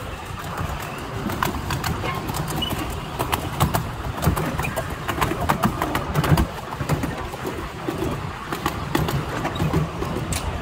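Miniature railway train running along the track, heard from a passenger car: the wheels clatter over the rails in irregular clicks above a steady low rumble.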